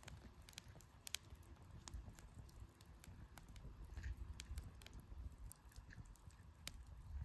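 Wood campfire crackling: scattered sharp pops and snaps from burning firewood over a low rumble.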